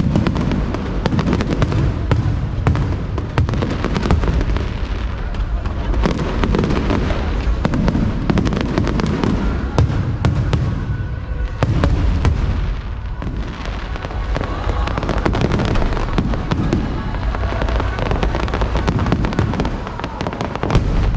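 Fireworks display: a dense, continuous barrage of bangs and crackling bursts over a steady low rumble of booms.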